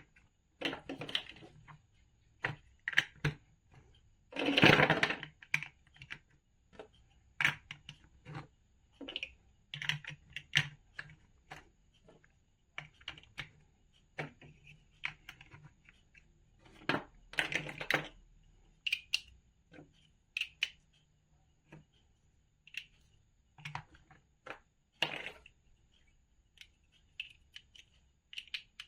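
Plastic toy building bricks being handled and pressed together: irregular small clicks and snaps, with louder rattles of pieces about four seconds in and again past the middle.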